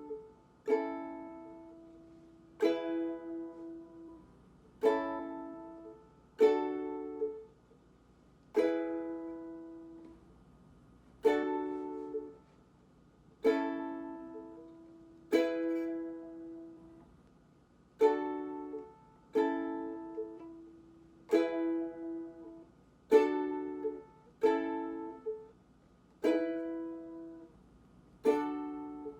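Ukulele strumming chords one at a time, about one every two seconds, each left to ring and die away, some with a quick second strum: slow practice of the D to A to E chord changes.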